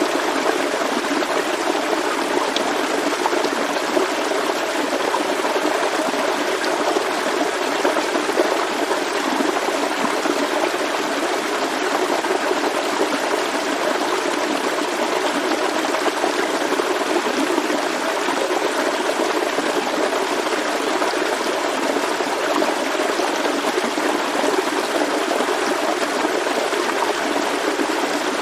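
Forest stream flowing steadily over rocks, a continuous burbling rush of water.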